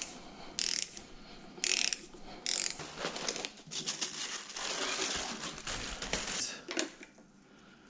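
Hand socket ratchet clicking in several short bursts and then one longer run, tightening the nuts that hold the water pump on its studs.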